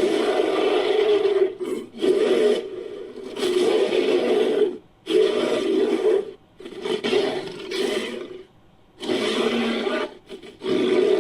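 Designed monster creature sound effect in a primal style, layered from ape and big-cat roar samples: a run of about seven harsh growls and short roars, each about a second long, with brief pauses between.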